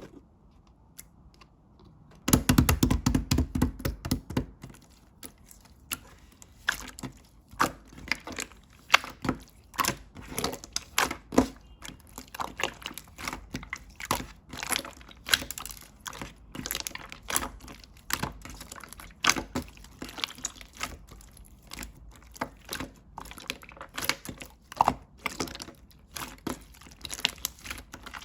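Slime being squeezed, poked and stretched by hand, giving a long irregular run of wet clicks, pops and crackles. It starts about two seconds in with a dense flurry.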